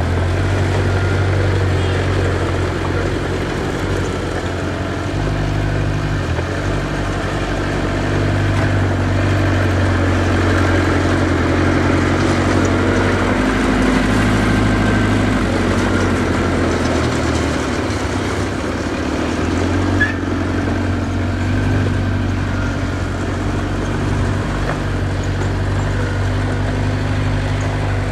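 Diesel engine of heavy earthmoving equipment running steadily, its pitch shifting up and down as the load changes, with a single sharp knock about twenty seconds in.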